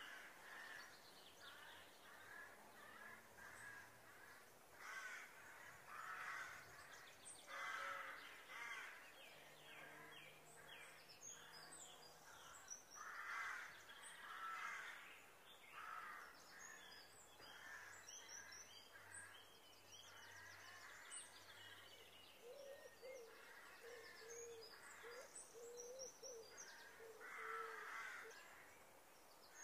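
Faint bird calls: repeated short calls with high chirps scattered between them.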